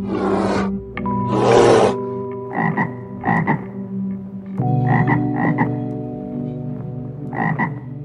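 A brown bear growls twice in the first two seconds, breathy and rough. Then a frog croaks: six short croaks in three pairs.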